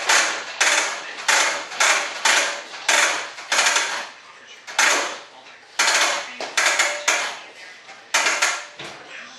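Air spray gun spraying mold release in a quick series of short trigger bursts, about a dozen in all, each a brief hiss lasting under a second.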